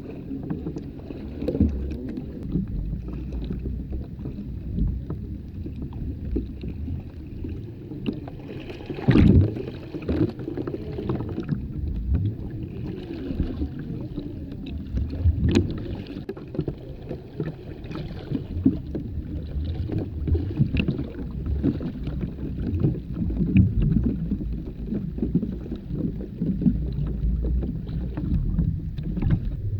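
Muffled water sloshing and lapping with irregular small knocks, and a stronger knock about nine seconds in.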